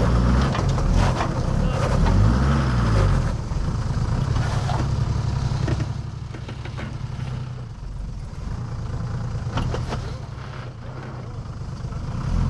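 Off-road four-wheel-drive's engine revving up and down hard several times over the first few seconds as it is driven up a rocky ledge, then running steadier and quieter for the second half, with a few sharp knocks.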